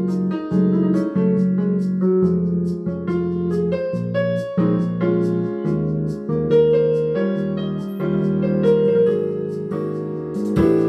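Background piano music: a steady run of notes, about two a second, over sustained low chords.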